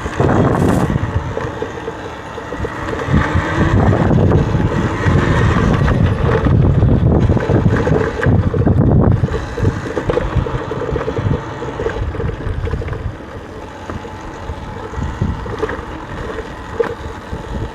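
Wind buffeting the microphone while riding an electric dirt bike over a trail, with a faint steady motor whine underneath. The rumble is heaviest from about three to eleven seconds in, then eases.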